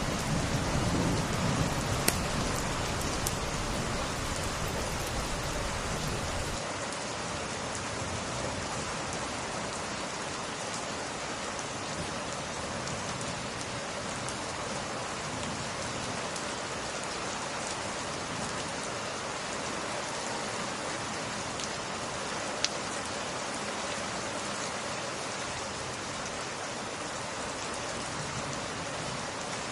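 Steady rain falling on glass, with a low rumble of thunder that fades out in the first several seconds. A few sharp pops stand out from the rain, one louder about three quarters of the way through.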